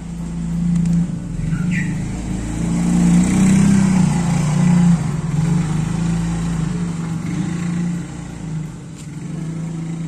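A motor vehicle engine running nearby, with a steady low hum that swells louder through the middle and eases off near the end.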